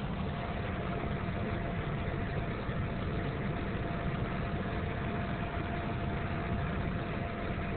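Car engine idling, heard from inside the cabin: a steady low rumble with a faint, even whine above it.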